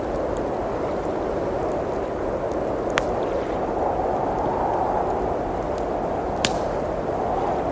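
Blizzard wind blowing steadily, with a wood fire crackling: two sharp pops, about three seconds and six and a half seconds in, and a few fainter ticks.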